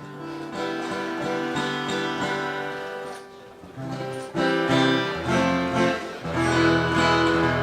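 Amplified acoustic guitar being strummed and picked, its chords ringing on, with a deeper bass note coming in about five seconds in.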